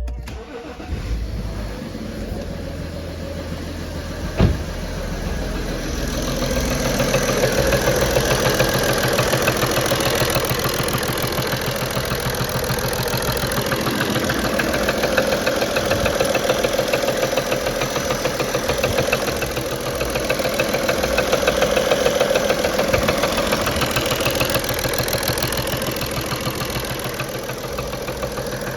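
BMW 335d's M57 twin-turbo inline-six diesel starting and idling with its vacuum pump removed, with a rapid knock from the top of the engine that the owner suspects is a faulty injector. A single sharp knock stands out about four seconds in, and the engine gets louder a couple of seconds later.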